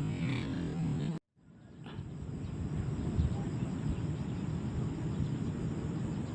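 Steady outdoor field ambience, a low rumbling haze of wind and background noise. It cuts out to silence for a moment just over a second in, then fades back in.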